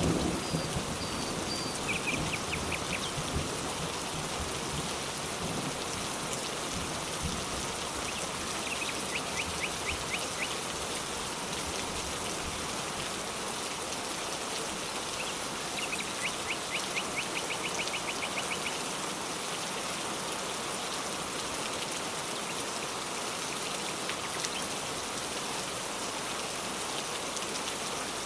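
Steady rain falling on surfaces, with the last of a thunder rumble dying away in the first second. A bird's rapid trill comes three times, each lasting a couple of seconds.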